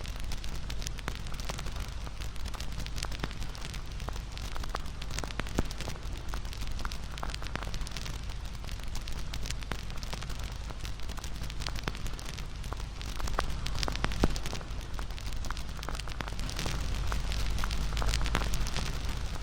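Wood fire crackling, with frequent sharp pops over a steady low rumble of the flames.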